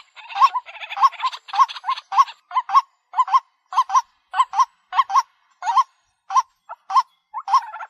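White-breasted waterhen calling: short, harsh notes repeated at about two a second, crowded together in the first second and more spaced out after. This is a lure call used to draw waterhens in.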